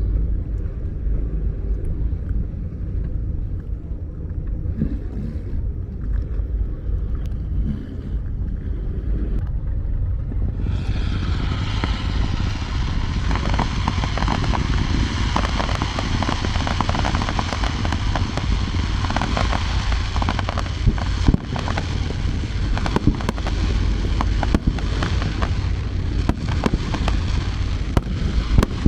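Fireworks display over a steady low rumble; about ten seconds in, a dense crackling of many small bursts sets in and keeps going, with a few sharper bangs near the end.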